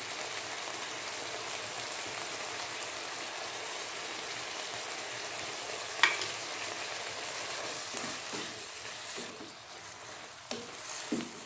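Vegetables and sauce sizzling in a hot pan with a steady hiss. A single sharp tap sounds about six seconds in. Near the end a spatula stirs and scrapes through the mix.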